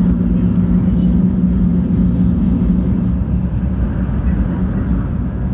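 Cabin running noise of a 700 series Shinkansen train: a steady low rumble with a low hum that weakens about halfway through.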